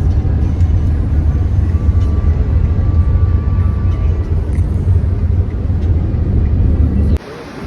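A loud, steady low rumble that cuts off suddenly about seven seconds in.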